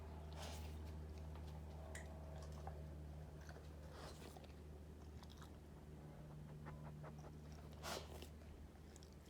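Akita dog chewing and crunching its food, with scattered crunches and the loudest one about eight seconds in. A steady low hum runs underneath.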